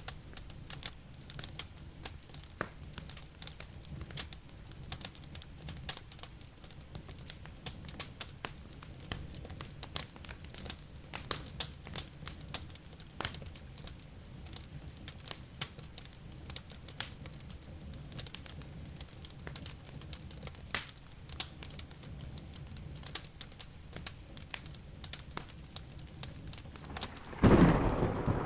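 Wood fire crackling, with many small sharp pops over a steady low background. Near the end a loud clap of thunder breaks in suddenly.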